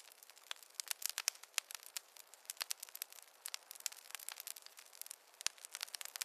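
Wood fire in a fireplace crackling, with many sharp, irregular pops and snaps over a faint hiss and no low rumble.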